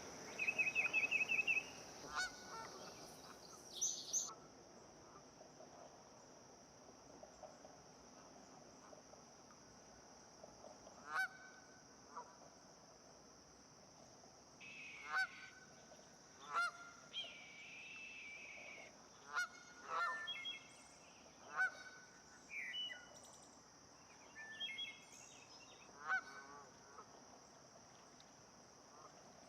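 Wild birds calling: a quick trill in the first couple of seconds, then short, sharp calls every one to three seconds through the second half, over a faint steady high hiss.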